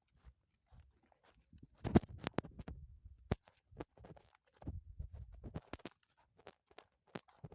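Donkey's hooves knocking and scraping on stony ground at an uneven walk, with the loudest knock about two seconds in and low rumbling between the steps.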